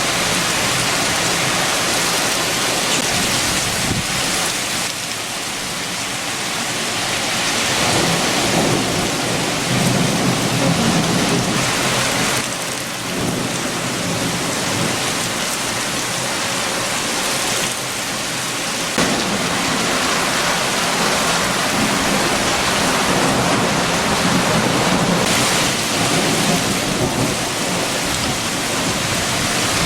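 Heavy rain with strong gusting wind, a continuous hiss that swells and eases every few seconds. A deeper low rumble builds up about eight seconds in and again about twenty seconds in.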